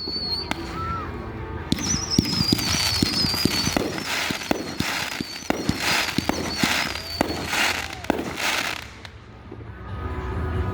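Fireworks going off: a long whistle falling slowly in pitch, many sharp bangs, and a run of crackling bursts about every half second that stops near the end.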